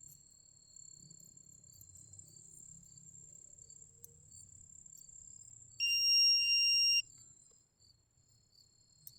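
Steady high insect chirring, and about six seconds in one loud, clear beep lasting about a second, a metal detector's target tone.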